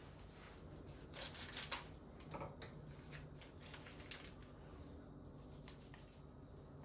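Faint handling sounds of small objects: a cluster of soft clicks and rustles about a second in, then a few scattered clicks.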